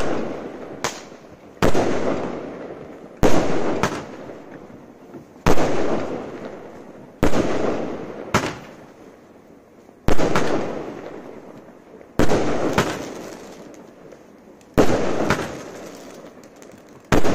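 Avengers Barrage Pack firework barrage firing, about a dozen sharp bangs at one-and-a-half to two-second intervals. Each bang is followed by a hiss that dies away before the next.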